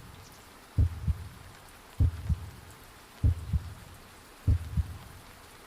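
Heartbeat sound effect: four slow double thumps, lub-dub, about one every 1.2 seconds, over a faint steady hiss of rain.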